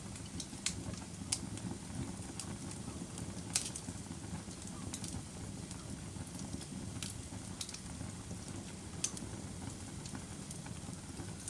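Fire crackling in a fireplace: a steady low rumble of the flames with irregular sharp pops, roughly one or two a second.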